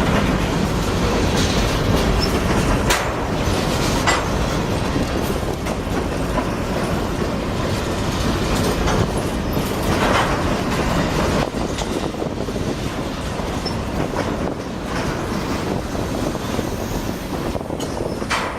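CSX freight train rolling past, its cars' wheels rumbling and clattering over the rail joints with occasional sharp clanks. The sound eases slightly near the end.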